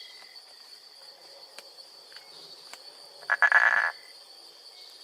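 A frog croaking once, loud and raspy-pulsed for about half a second, a little over three seconds in, over a steady high-pitched background drone.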